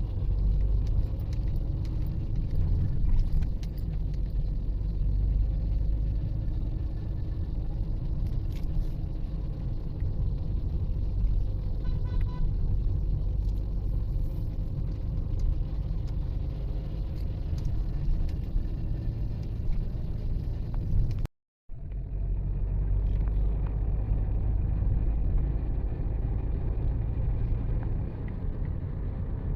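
Motor vehicle driving along a road: a steady low rumble of engine and road noise. A brief high tone sounds near the middle, and about two-thirds of the way through the sound cuts out for a moment and comes back duller.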